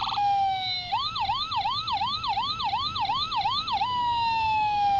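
An emergency-vehicle siren sound effect. It starts on a slowly falling wail, switches to a fast yelp of about three rising sweeps a second, then goes back to a slow falling wail near the end.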